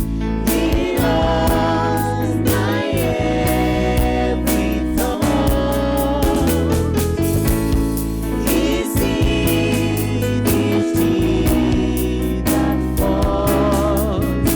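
Gospel worship music: voices singing over sustained keyboard and bass accompaniment.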